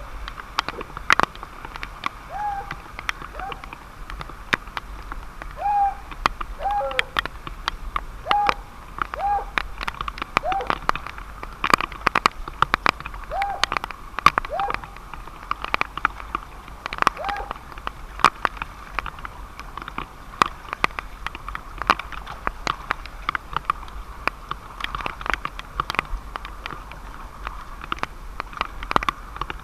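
Irregular pattering ticks of falling or dripping water over a steady wash of running water. In the first half there is a series of about a dozen short hooting calls.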